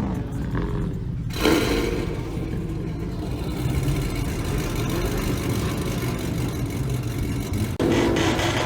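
A car engine running with a steady low rumble. The sound changes abruptly about a second in and again near the end.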